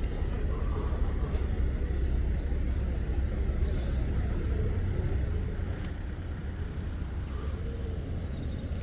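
Steady low outdoor rumble, with a few faint, brief high chirps.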